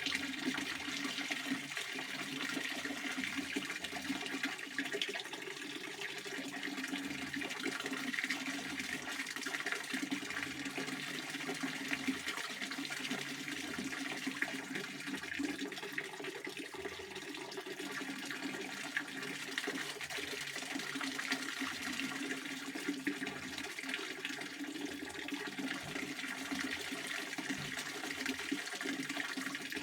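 A pond water fountain splashing steadily: falling water in a continuous, even rush.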